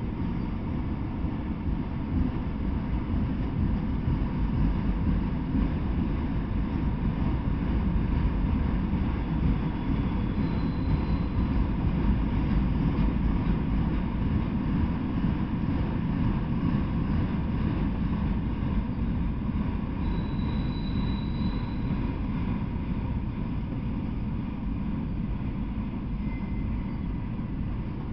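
Freight train of autorack cars rolling past at steady speed: a continuous low rumble of steel wheels on the rails. Faint, short, high whines sound over it about ten and about twenty seconds in.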